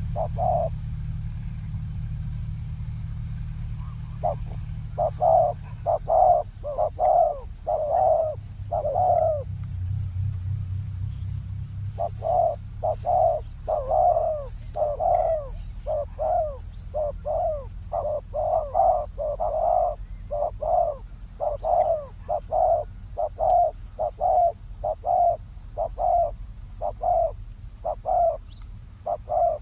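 Spotted doves cooing: runs of short, repeated coos a few per second, with a brief pause about a second in and another around ten seconds in. A low steady rumble lies underneath.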